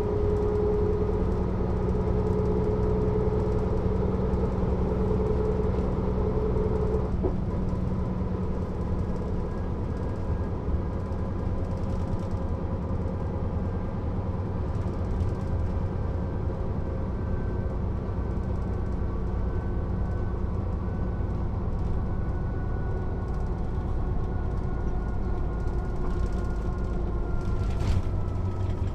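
Mercedes-Benz O 407 city bus driving, its diesel engine and drivetrain running steadily. A steady tone stops with a click about seven seconds in, and a whine falls slowly in pitch near the end.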